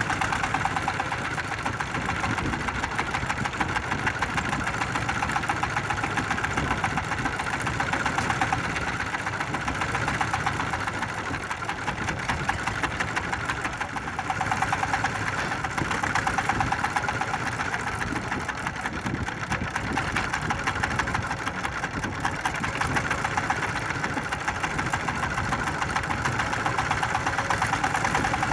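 A small fishing boat's engine running steadily, a fast, even chugging that doesn't change speed.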